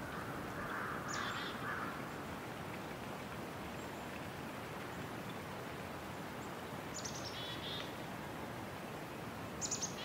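A bird calling three times, short high notes that drop in pitch, over a steady outdoor hiss.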